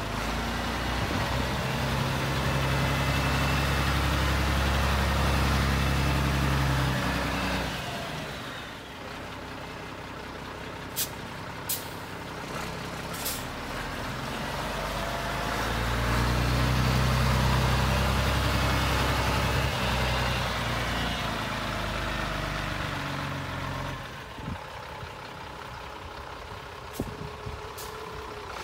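Scania 92M truck running. A louder steady machine sound holds for about seven seconds at the start, dies away, and comes back for several seconds in the middle, with a lower running sound between. A few sharp clicks come in the quieter stretches.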